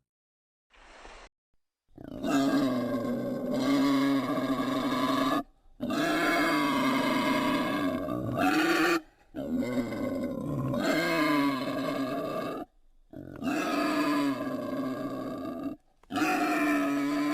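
Animal calls, cut together as a run of separate clips: each a drawn-out, pitched call lasting two to three seconds, broken off abruptly by short silences about every three seconds.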